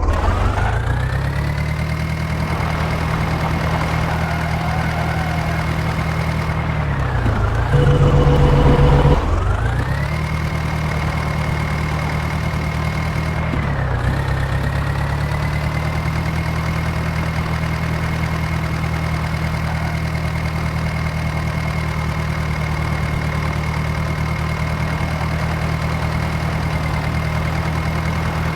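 Heavy diesel engine revving up under load and holding high revs, dropping briefly twice and climbing again. While the revs are down, a louder steady tone sounds for about a second and a half.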